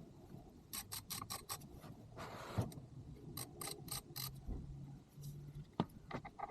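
Ratchet wrench clicking in two quick runs of strokes, with a brief rasp between them, while undoing the oil sump drain plug.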